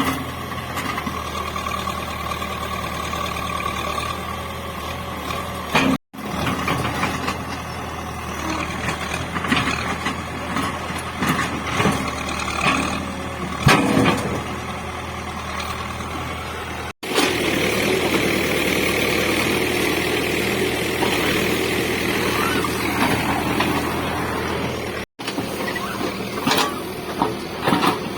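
Caterpillar 424B2 backhoe loader's diesel engine running steadily under work, with scattered knocks and cracks. The sound breaks off abruptly three times where the footage is cut.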